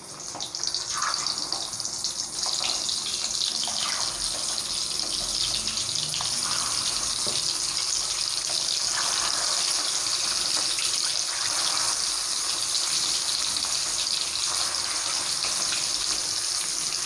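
Spice-coated boiled eggs sizzling as they fry in hot ghee in a kadai. The sizzle builds over the first couple of seconds as more eggs go in, then holds steady, with a few faint ticks.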